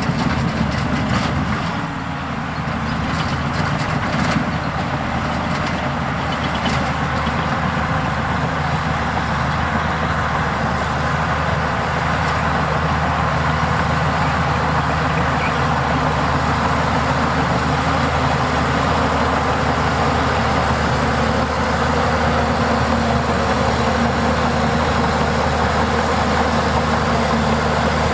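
Heavy diesel earthmoving machinery running steadily, with a few metallic clanks in the first several seconds.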